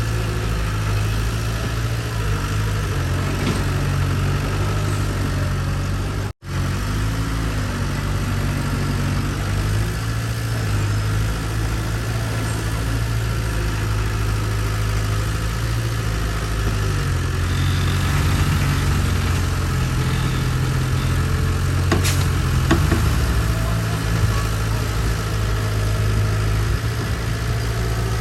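Heavy-equipment diesel engine running steadily at low revs, its pitch shifting slightly about halfway through. The sound drops out for an instant about six seconds in, and there are a couple of short knocks near the end.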